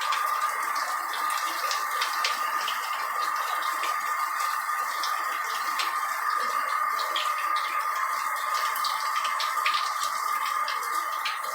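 Water spraying steadily from a shower head, with many small splashes and drips scattered through it.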